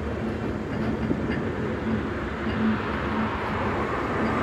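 Bangladeshi passenger train (the Dhumketu Express) running at speed, heard from inside a carriage as a steady rumble of wheels on the rails.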